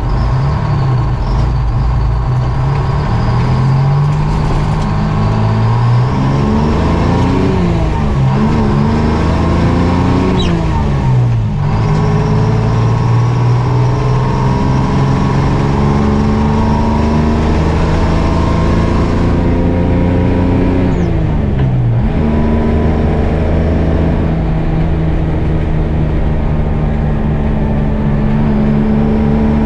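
GMC Crackerbox semi truck's two-stroke Detroit Diesel engine pulling hard, its pitch climbing through a gear and dropping at an upshift about eleven seconds in, then climbing and dropping again at a second shift about twenty-two seconds in before running steady.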